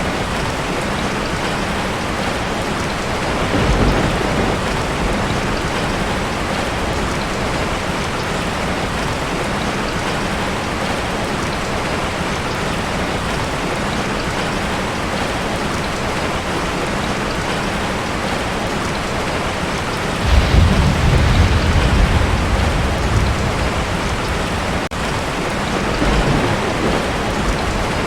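Heavy rain falling on a tin roof, steady throughout, with thunder: a short low rumble about four seconds in, a louder rumble starting about twenty seconds in that lasts several seconds, and a fainter one near the end.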